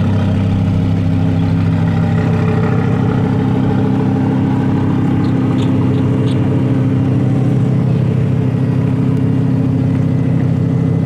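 Twin-turbo Lamborghini engine idling steadily with a deep, even note.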